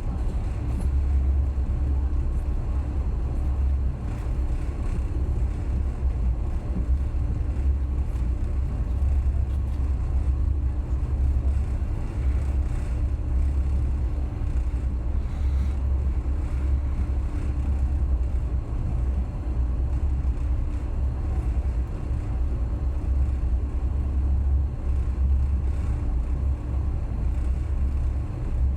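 Passenger train running along the line: a steady low rumble of the carriage on the track, with a faint constant hum above it.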